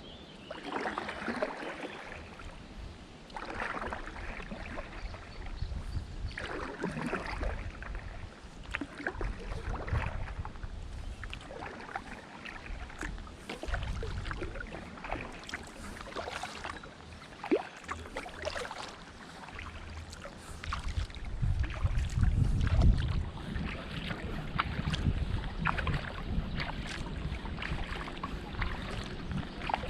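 Kayak paddle strokes: the blades dip and splash in the water in a slow rhythm, a stroke every two to three seconds, with water trickling off the paddle. About two-thirds of the way through, wind rumbles on the microphone.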